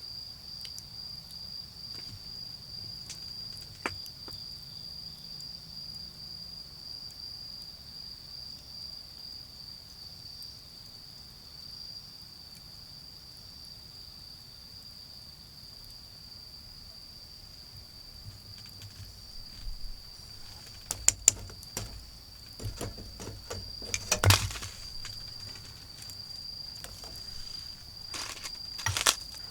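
An autumn cricket trills continuously at a high, steady pitch. Against it a wood and charcoal fire ticks, then crackles and pops in a cluster of sharp snaps and knocks over the last third, the loudest a little before the end.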